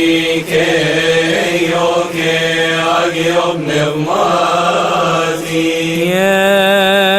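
A single voice chanting a slow, melismatic liturgical melody, settling about six seconds in on a long held note with wide vibrato.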